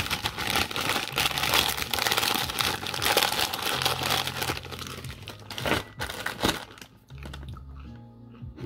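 Plastic snack packaging crinkling and rustling as it is handled, continuously for about five seconds, then in a few short separate crinkles.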